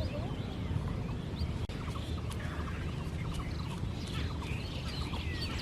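Many short bird chirps and calls over a steady low rumble.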